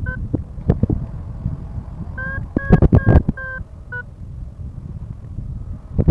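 Paragliding variometer beeping a quick run of short, same-pitched tones, the sign that the glider is climbing. Underneath is heavy wind rumble and buffeting on the microphone, with scattered knocks.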